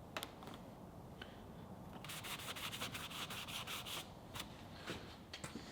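A few light clicks, then about two seconds of fast back-and-forth rubbing strokes on a hard surface, followed by a few more scattered clicks.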